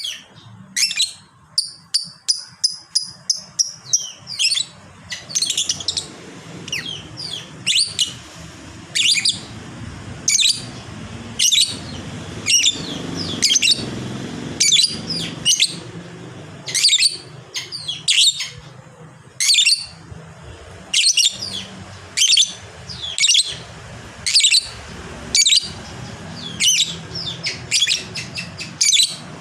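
Lovebird calling: a fast run of rapid, evenly repeated chattering notes (the 'ngekek') for a few seconds near the start, then sharp high chirps repeated about once a second.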